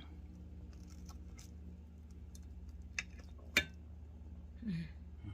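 Quiet eating at a table: two sharp tableware clicks about three seconds in and half a second apart, and a brief low murmur near the end, over a steady low hum.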